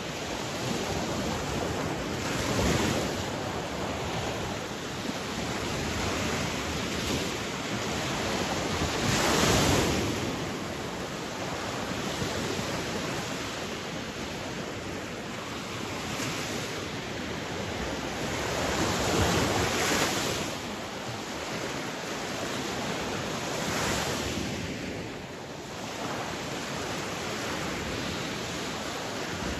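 Sea waves breaking on a shore, a steady rush of surf that swells every few seconds, with the biggest surge about nine to ten seconds in.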